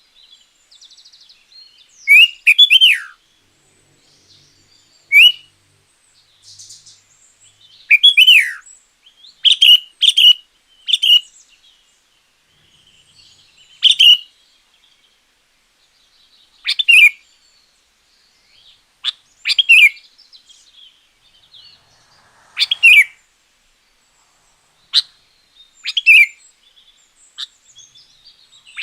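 Sooty-headed bulbul (kutilang) singing: loud, short whistled phrases with quick up-and-down sweeps in pitch, coming every one to three seconds, with fainter chirps between them.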